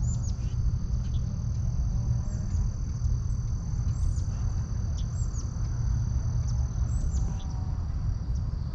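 Insects trilling in a steady high-pitched drone, with scattered short bird chirps, over a louder steady low rumble.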